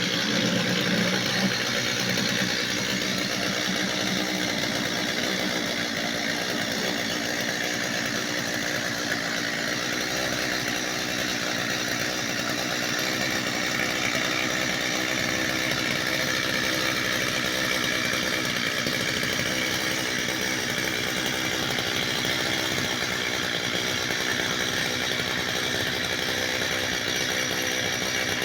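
Petrol chainsaw running steadily at a constant speed.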